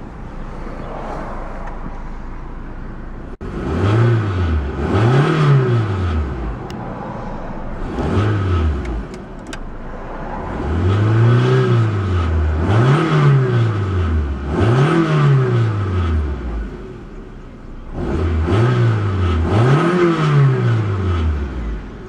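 1992 Nissan Stanza's 2.4-litre four-cylinder engine idling, then blipped about nine times in three bursts. Each rev rises and falls in pitch, and it settles back to idle between bursts. The engine revs up and returns cleanly, and sounds fantastic.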